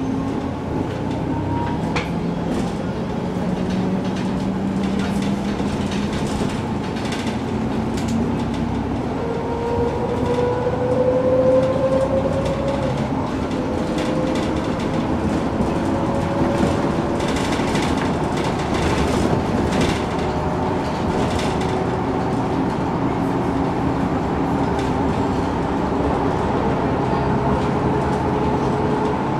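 MAN NG 313 articulated city bus running, its engine and drivetrain whining up in pitch as it accelerates, loudest about eleven seconds in, with rattles and clicks over the steady drone.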